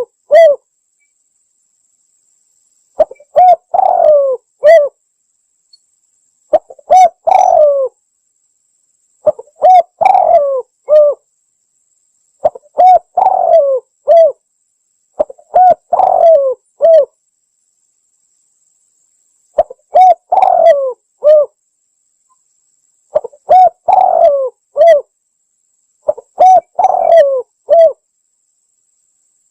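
Spotted dove cooing as a trapping lure call: a short phrase of several mellow coo notes, repeated about every three to four seconds, eight times, with silence between phrases.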